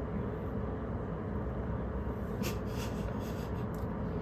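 A scone being bitten into and chewed: a few short, soft crunches and rustles in the middle, over a steady background hum.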